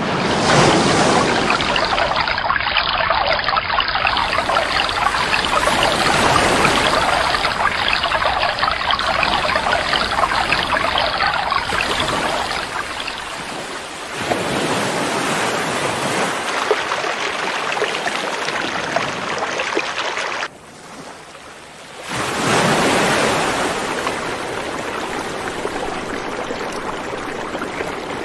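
Rushing river water, a dense steady rush of flowing water. The sound changes abruptly several times, as if separate stretches of river were spliced together, and drops quieter for a moment about twenty seconds in before the rush returns.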